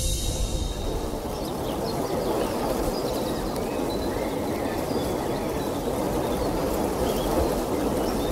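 Steady outdoor background noise, a low even rush, with faint short bird chirps scattered through it.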